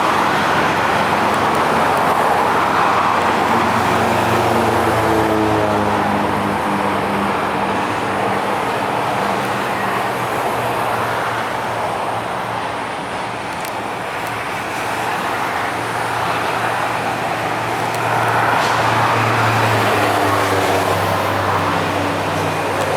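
Steady vehicle traffic noise, with a pitched motor hum that comes up about four seconds in and again near the end.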